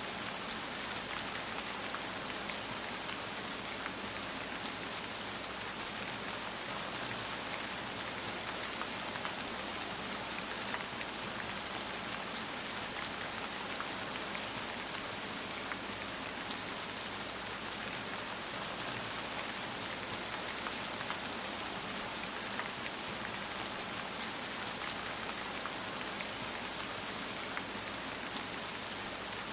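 Steady rain falling on a hard surface, a continuous even patter of many small drop impacts with no thunder.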